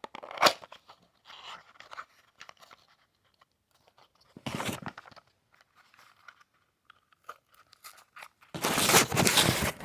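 Toy packaging being torn and crunched open by hand: a sharp crack about half a second in, a short rip around the middle, and a longer, louder tearing and crunching near the end.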